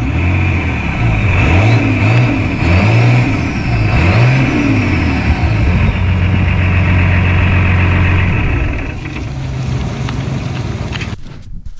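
Swapped-in Cummins diesel engine of a monster truck running, its pitch rising and falling as it is revved over the first few seconds, then holding steady. It fades somewhat and then cuts off sharply shortly before the end.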